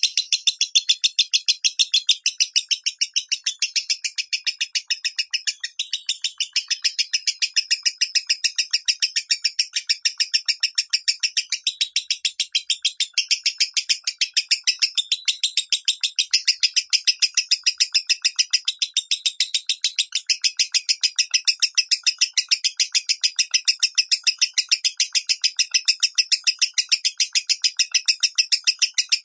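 Lovebird singing its 'minor' song: a long, unbroken run of rapid, evenly repeated high chirps that goes on without a pause.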